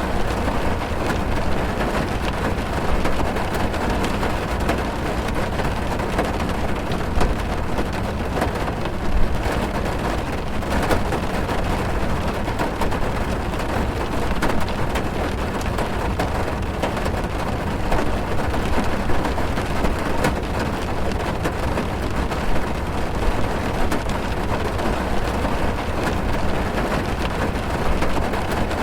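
Heavy rain drumming on a car's roof and windows, heard from inside the car: a dense, steady patter with many small drop impacts.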